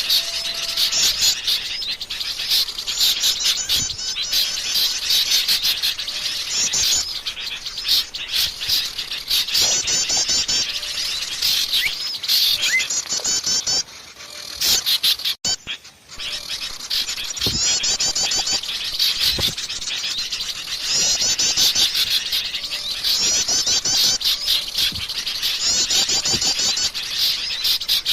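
A dense, noisy chorus of small songbirds, many rapid chirps and trills over one another, from a bird-lure recording of agitated calling. It breaks off briefly about halfway through, then resumes.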